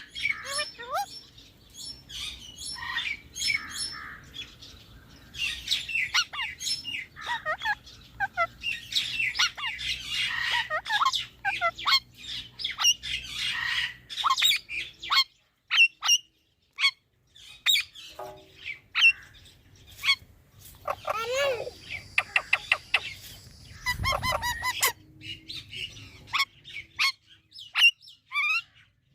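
Parrots chirping and squawking in a rapid string of short calls and whistles, with a cluster of louder, harsher squawks in the last third.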